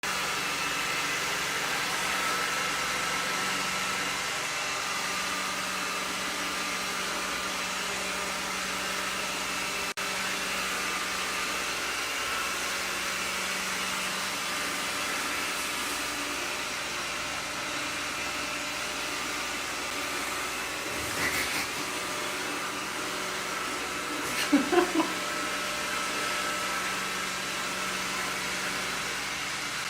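Roomba robot vacuum running, a steady whirring hum. About two-thirds of the way through there is a brief sound, then a louder cluster of three short pitched sounds.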